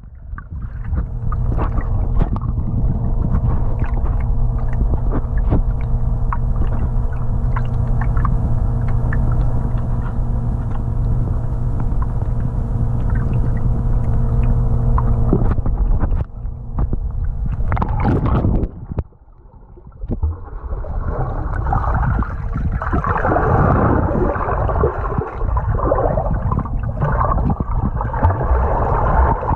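A steady low machine hum with scattered clicks for about fifteen seconds, which then cuts out. From about twenty seconds in, water churns and gurgles unevenly.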